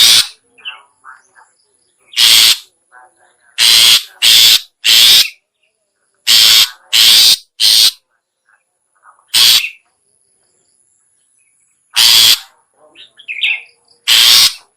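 Long-tailed shrike (cendet/pentet) lure call: about a dozen short, harsh calls at irregular intervals. Faint small chirps fall between them.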